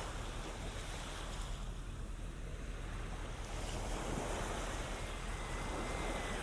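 Ocean surf washing onto the beach, with some wind buffeting the microphone. A faint, high, steady tone joins in about five seconds in.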